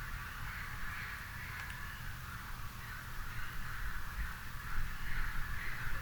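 A distant chorus of crows cawing, many calls running together into a steady, wavering din, over a low rumble.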